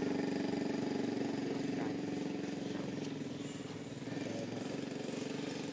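A small engine running steadily at a constant pitch.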